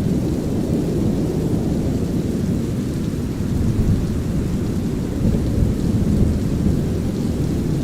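Deep, steady brown-noise rumble layered with light rain and rolling thunder, which swells a little partway through.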